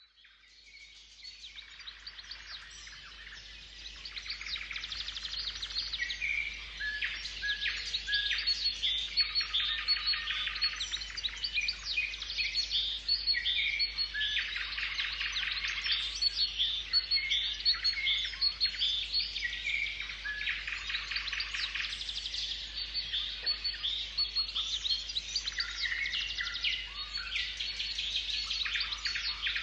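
Several songbirds singing at once, a dense chorus of short high chirps and rapid trills overlapping one another. It fades in over the first few seconds.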